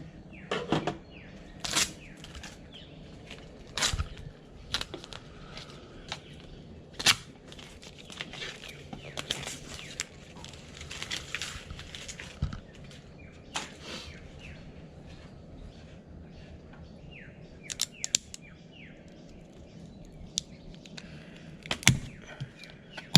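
Wooden native-bee hive boxes being prised apart, the box stuck down well: irregular sharp clicks, knocks and cracks as the sealed join gives.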